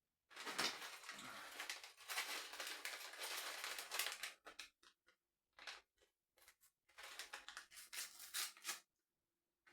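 Thin plastic LEGO parts bags crinkling and being torn open: a long run of crackling rustle, a few short crinkles, then another stretch of rustling near the end.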